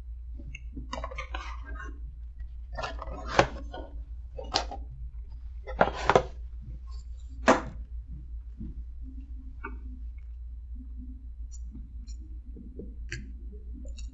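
A person chewing a bite of burger, with a handful of sharp mouth clicks and smacks in the middle few seconds, over a steady low hum.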